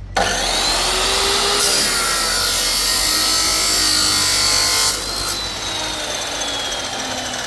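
A power tool starts suddenly and runs under load, working through material with a whining motor note that glides in pitch. After about five seconds it drops to a lower, lighter-loaded running sound.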